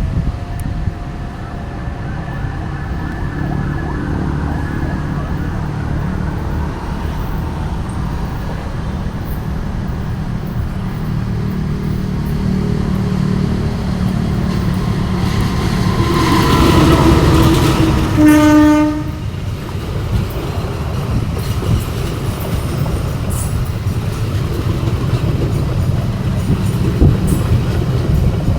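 Commuter passenger train pulling into a station: a steady low rumble of engine and wheels on the rails, swelling louder about two-thirds of the way through, with one short horn blast.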